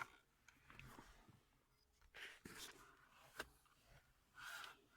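Near silence, with a few faint clicks and soft rustles of a plastic car air-conditioning vent being handled.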